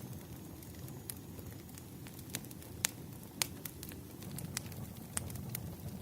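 Wood fire crackling: irregular sharp pops over a low, steady rumble, the two loudest pops close together about three seconds in.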